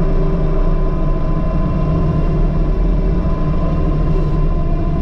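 Engine of a snow-clearing loader running steadily as a loud, even drone.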